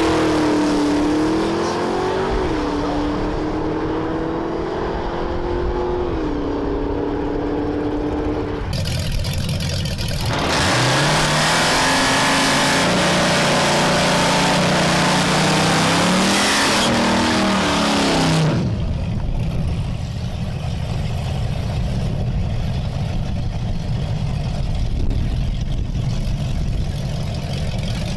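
Drag-strip engines in three cuts. First, a 1960s station wagon's engine pulls away off the line, its pitch rising and dropping twice as it shifts gears. About ten seconds in, a 1980s Chevrolet Camaro's engine revs loudly for about eight seconds under a heavy rush of noise, followed by another car's engine idling low and steady.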